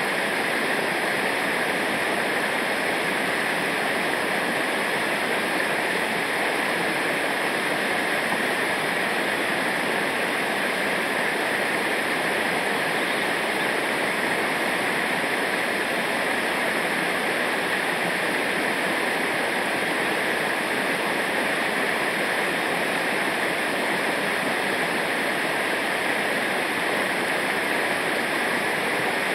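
Rushing river water, a waterfall or rapids, a steady full hiss that does not change.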